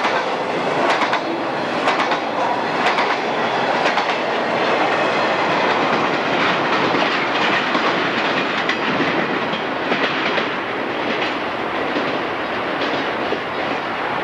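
Double-stack intermodal container train's freight cars rolling by, steel wheels clacking over rail joints, roughly one clack a second in the first few seconds.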